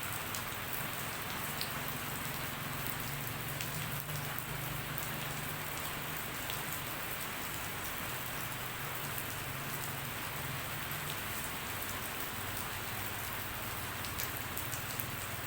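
Steady rain falling, a continuous hiss with many scattered drops ticking through it.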